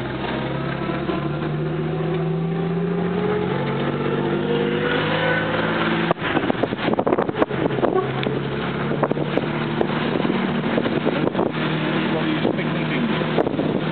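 Lancia Aurelia B21's V6 engine heard from inside the car, pulling with its pitch rising steadily for about six seconds. Then the sound changes abruptly and a couple of seconds of clicks and knocks follow, after which the engine runs on at a lower, steady pitch.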